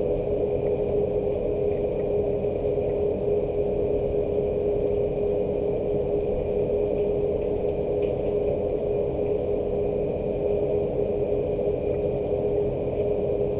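Steady rain, mixed with a constant mechanical hum that holds one steady tone throughout.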